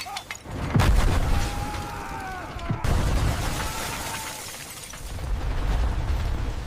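Dramatized explosion sound: a sudden deep blast about a second in, a second sharp blast near three seconds, then a low rumble that swells again near the end.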